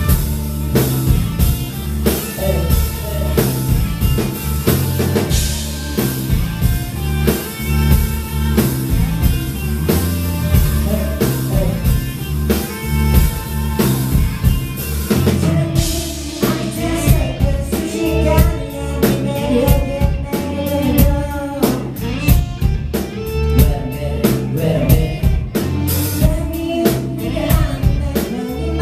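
K-pop concert music played over the venue's sound system, with a steady drum-kit beat, bass and guitar. A male singing voice comes in about halfway through.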